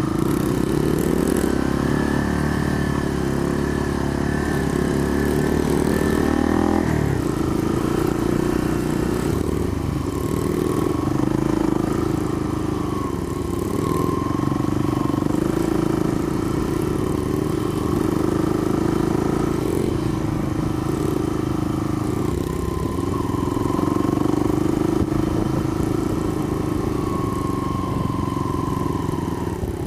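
Honda 70cc four-stroke single-cylinder dirt bike engine running under way, its pitch rising and falling a little with the throttle, with a change in note about seven seconds in.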